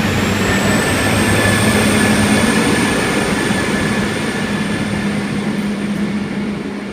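Hunter set diesel railcar pulling away from the platform, its engine running under power with a high whine that rises in pitch in the first second and then holds. The sound grows to a peak about two seconds in, then slowly fades as the train moves off.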